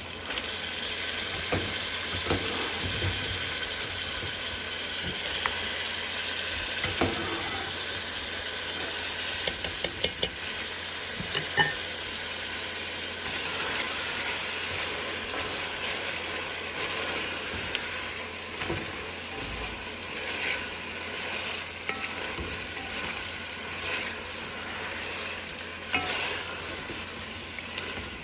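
Food sizzling steadily in hot oil in a cooking pot while being stirred. The sizzle starts suddenly. About ten seconds in there is a quick run of sharp clinks, like a utensil against the pot.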